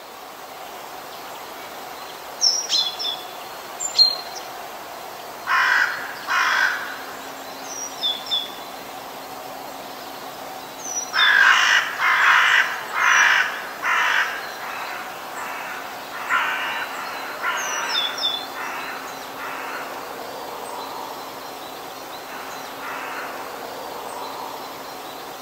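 Bird calls: runs of harsh, caw-like calls in groups of two to five, with short high chirps scattered between them, over a steady hiss.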